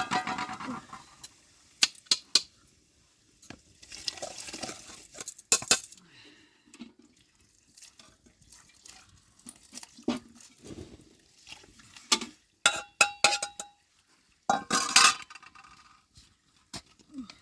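Scattered clinks and knocks of hard objects, some ringing briefly, with a cluster about twelve to thirteen seconds in and the loudest clatter about fifteen seconds in.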